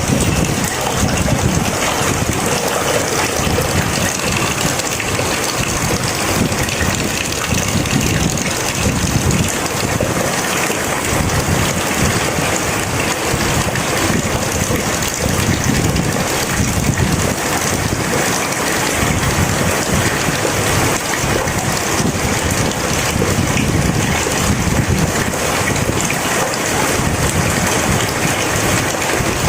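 Heavy rain pouring steadily, a dense even hiss with an uneven low rumble beneath it.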